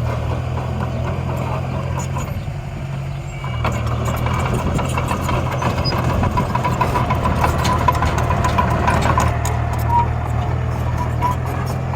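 Miniature construction machines running with a steady, engine-like drone. The drone dips briefly about three and a half seconds in, then returns with a busier stretch of short clicks and scraping as soil and stones are moved.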